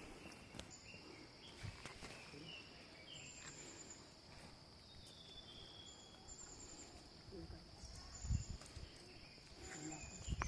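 Outdoor insect drone: a steady high-pitched buzz with short chirps repeating every couple of seconds, a few brief bird calls over it, and two low thumps near the end.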